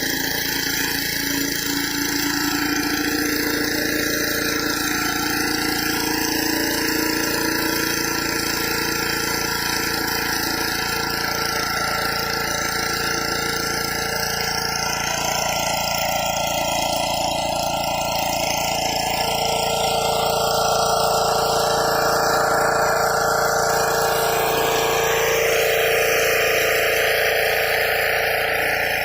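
Engine-driven pressure washer running steadily, its engine drone under the hiss of the high-pressure water jet blasting concrete, the tone shifting a little about halfway through and again near the end.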